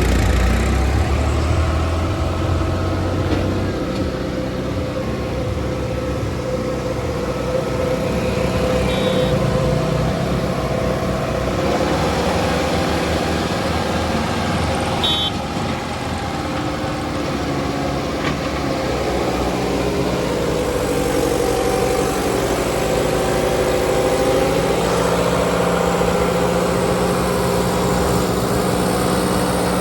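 Kubota 5501 diesel tractor engines running hard under load, with more than one engine note overlapping and the pitch shifting up and down several times.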